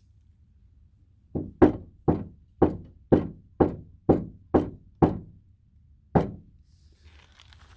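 A knuckle rapping about ten times on a bare Jeep Wrangler LJ door panel, about two knocks a second with one last knock after a pause. Each knock rings briefly: a sound test of the untreated panel before sound-deadening spray goes on.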